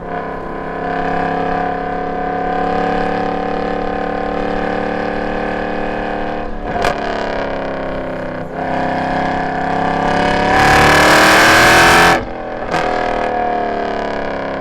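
Mercedes C63 AMG's M156 6.2-litre V8, uncatted with long-tube headers and an X-pipe, running hard on track with a loud, steady exhaust note. The note breaks briefly twice in the middle, and near the end a loud rushing noise swamps it for about a second and a half.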